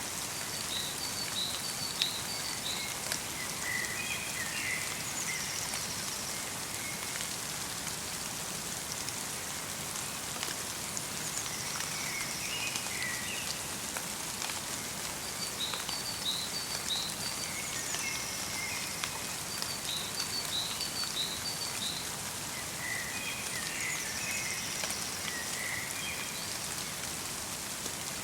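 Steady light rain pattering, with small songbirds calling in short, repeated twittering phrases every few seconds.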